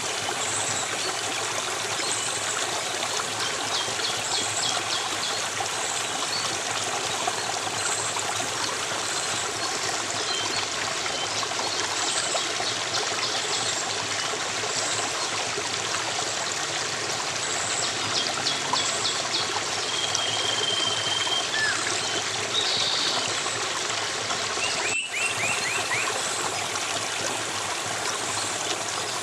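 Steady flowing stream, water trickling and splashing, with faint bird chirps and short trills over it, including a short whistled note about two-thirds of the way in. The sound cuts out for an instant about 25 seconds in.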